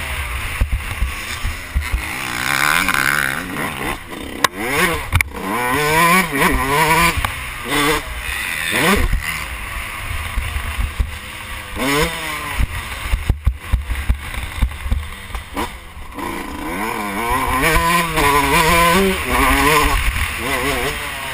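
Yamaha YZ125 two-stroke motocross engine revving hard through the gears, its pitch climbing in repeated rises and dropping back as the throttle is rolled off, heard from the rider's helmet with wind buffeting the microphone.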